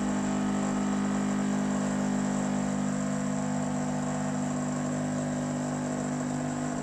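Pod coffee maker's pump running steadily with a low buzzing hum as it dispenses a drink into a mug.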